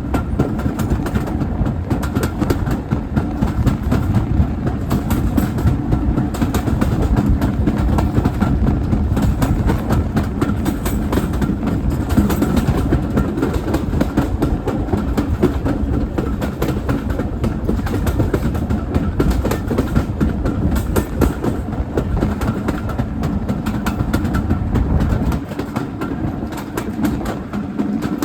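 A heritage railway train running along the track: a steady rumble with wheels clicking over the rail joints, easing slightly near the end.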